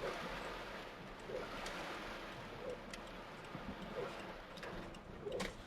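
Heavy rain pouring down as a steady hiss, with a few sharp ticks of drops striking and a short low sound repeating about every second and a half.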